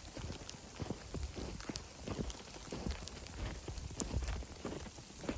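Sleet pattering on dead leaves and snow: a static-like hiss of many fine irregular ticks, with a few soft low thumps mixed in.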